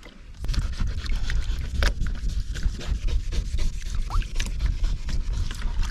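Water sloshing and rumbling close against the microphone, with rubbing and scraping as the boat's waterline boot stripe is scrubbed; it starts suddenly about half a second in.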